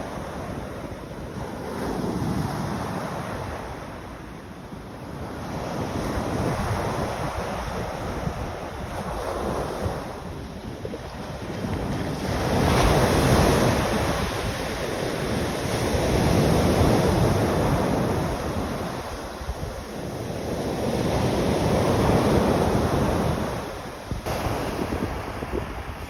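Sea waves surging and washing in, swelling and falling away every four to five seconds, with wind rumbling on the microphone.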